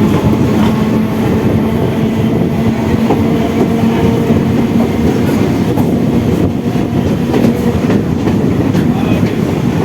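MEMU electric multiple-unit train running at speed, heard from inside the coach: a loud, steady rumble of wheels on rail with a faint hum.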